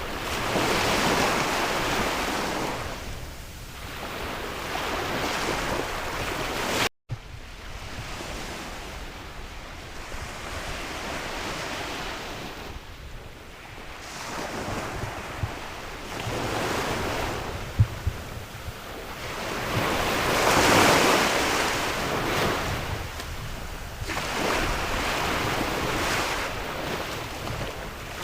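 Sea waves breaking and washing in, swelling and fading every few seconds, with wind rushing over the microphone. The sound drops out for a moment about seven seconds in.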